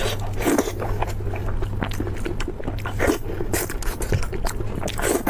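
Biting and chewing of crisp food: a series of short crunching strokes over a low steady hum.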